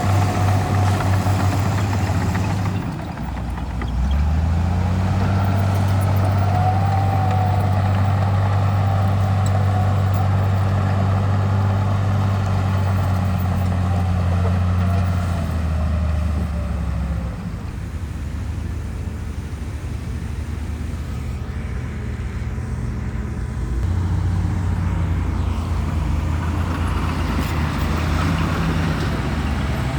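Heavy earthmoving machine's diesel engine running with a low, steady hum. It gets louder about four seconds in, drops back around seventeen seconds and picks up again near twenty-four seconds. A faint wavering whine sits above it for several seconds early on.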